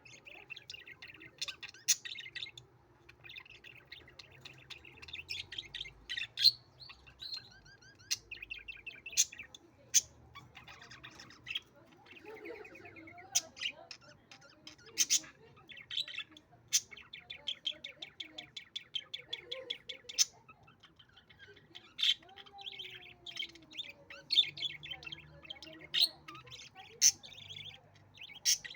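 Budgerigars chattering and warbling continuously, with many short, sharp chirps standing out above the chatter.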